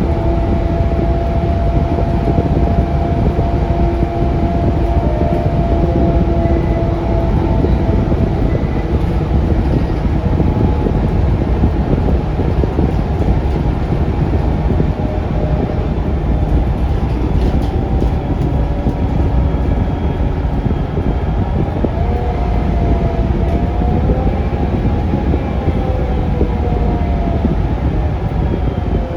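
Scania K360UA articulated bus under way, heard from on board: its Scania DC9 five-cylinder diesel and drivetrain give a steady low rumble. Thin whining tones sit above the rumble, holding steady early on, then rising and falling in pitch from about two thirds of the way through as the speed changes.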